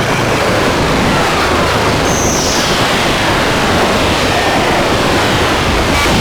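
Harsh noise music: a loud, dense wall of distorted noise with many falling sweeps through it and a short high whistle about two seconds in.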